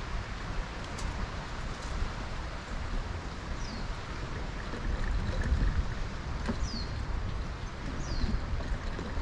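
Wind rumble and outdoor noise while riding a bicycle. A bird calls three times with short, high notes that fall in pitch.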